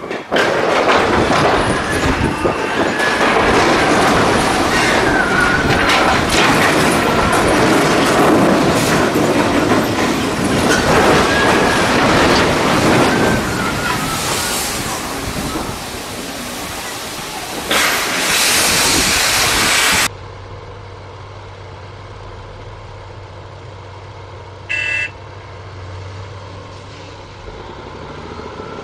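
Loud rumble of a passing train with a wavering high squeal, cut off abruptly about twenty seconds in. Then a quieter steady low hum follows, with one short electronic beep about 25 seconds in.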